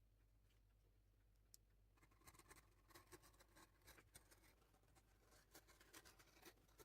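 Near silence: quiet room tone with a faint low hum, and from about two seconds in, faint scattered small clicks and scratches.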